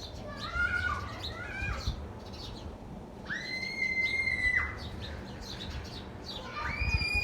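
Birds calling: several short calls that bend up and down in the first two seconds, then one long call held at a steady pitch for over a second about three seconds in, and another long call starting near the end.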